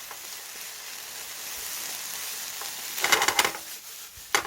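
Onions sizzling as they are stir-fried in a pan, with a steady hiss. About three seconds in, a spatula scrapes and clatters against the pan for half a second, and there is one sharp clack near the end.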